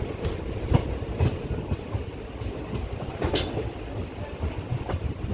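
Passenger train coach running along the track, heard at an open doorway: a steady rumble of wheels on rail with irregular clickety-clack knocks as the wheels cross rail joints, one sharper clank about three seconds in.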